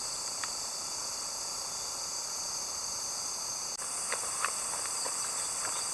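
Steady high-pitched insect chorus in summer vegetation. It shifts abruptly about two-thirds of the way through, and a few faint short clicks follow.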